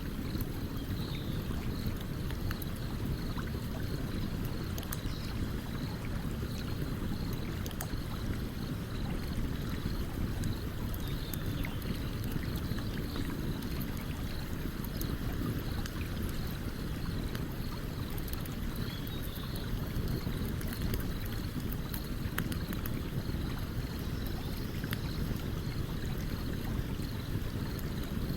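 Stream running steadily, with a campfire crackling over it in scattered small, sharp pops.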